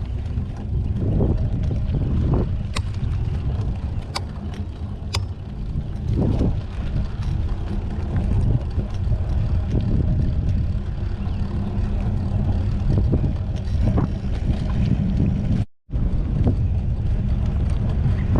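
Wind buffeting the microphone on a moving mountain bike: a steady, loud low rumble, with a few sharp clicks from the bike in the first few seconds. The sound cuts out for a moment near the end.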